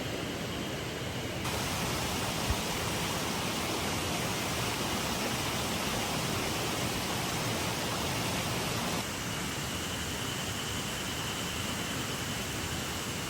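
Steady rushing of a flowing river, louder from about one and a half seconds in until about nine seconds in, with one small click near the start of the louder stretch.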